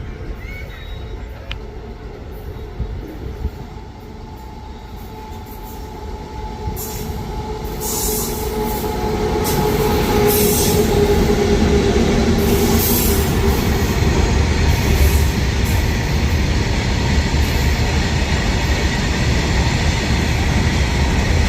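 Freight train hauled by a WAG-9 electric locomotive running past, its rumble growing louder over the first several seconds and then holding steady. Steady tones ride over the rumble, along with wheel and rail noise.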